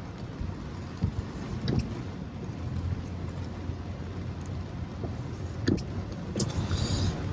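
Car running at low speed: a steady low engine and road hum with a few light knocks.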